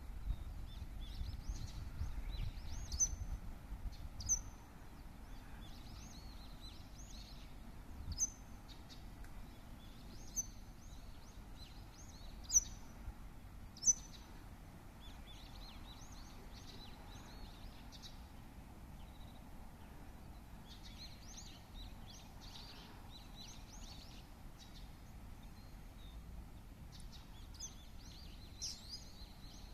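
Small birds chirping and twittering, with repeated short, sharp high calls standing out over softer chatter. A steady low outdoor background noise runs underneath and is louder for the first few seconds.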